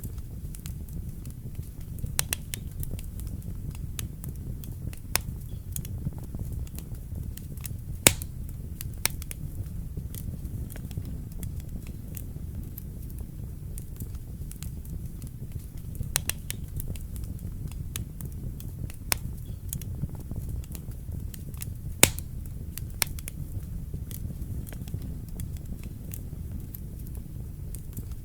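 Wood fire burning in a fireplace: a steady low rumble of the flames with irregular sharp crackles and pops, two of them louder, about 8 and 22 seconds in.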